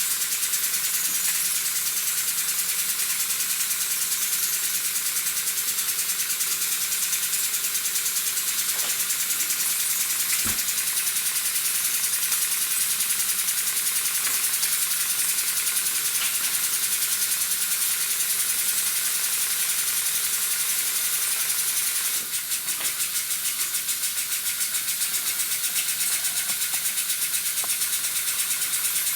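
Miniature kit steam engine running with a steady hiss of steam, leaking from around its fittings, and a light rattle. A single click comes about ten seconds in, and a fast, even pulsing of the engine's strokes stands out in the last few seconds.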